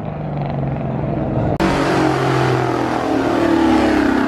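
Street-racing car engines at hard throttle, growing louder, with a sudden jump in loudness about one and a half seconds in. The engine note holds and sags slightly in pitch.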